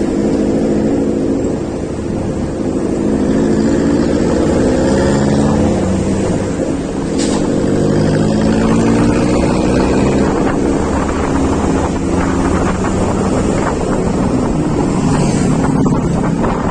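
Motorcycle engine running while riding, its pitch rising and falling with the throttle, under heavy wind buffeting on the microphone.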